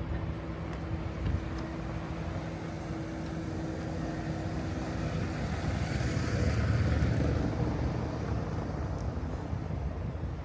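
A road vehicle passing on a city street, loudest about six to seven seconds in, after a steady engine-like hum in the first half.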